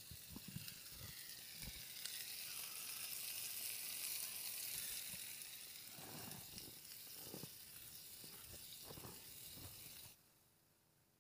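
Sausages and tomatoes sizzling in a small pan on a gas canister stove, with a few soft knocks of the pan or utensils; the sizzle cuts off suddenly about ten seconds in.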